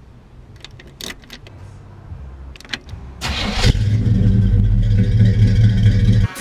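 A custom vintage coupe's engine being started: a few key and ignition clicks, then about three seconds in the engine fires with a loud burst and settles into a steady idle with a strong low rumble from the exhaust.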